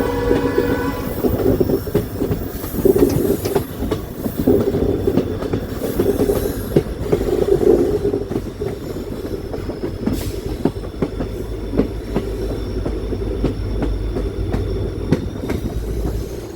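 Train running on the rails: steady rumble with wheels clicking over rail joints, and a brief wheel squeal at the start.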